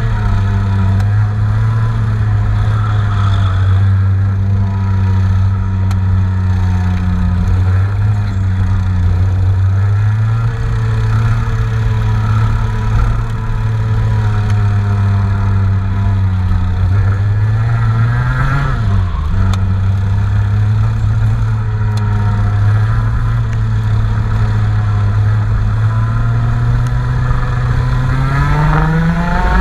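Engine being test-run, holding a steady fast idle with small rises and falls in speed. It dips and picks up again about two-thirds of the way through, then revs up near the end.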